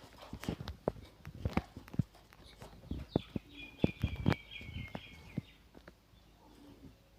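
Irregular clicks and taps, with a short, rapid series of high chattering bird notes from about three to five and a half seconds in.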